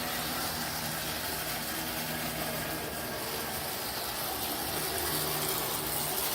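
Athearn HO scale FP45 model diesel locomotive running on its track, its DC electric motor and gear drive making a steady hum over a continuous hiss.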